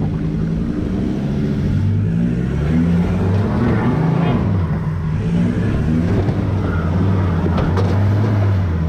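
Ford Ranger's engine working at low revs as the ute crawls through a deep washout off-road. The pitch rises and falls with the throttle, then holds steady near the end.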